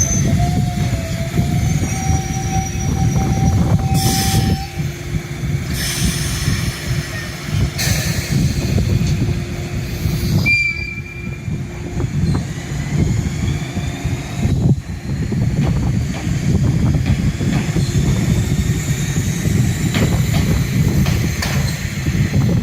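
JR 185 series electric train moving slowly with a steady rumble, its wheels squealing in drawn-out tones. One tone rises slowly early on, and there are a few sharp clanks a few seconds in.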